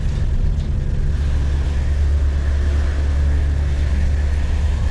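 Steady low rumble of a car driving, engine and road noise with no breaks or changes.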